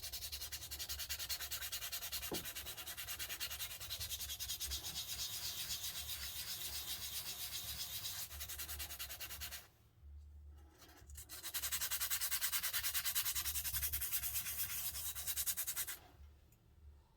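Sandpaper rubbed by hand over a model car part in quick, even back-and-forth strokes. It pauses for a moment about ten seconds in, then resumes briefly before stopping.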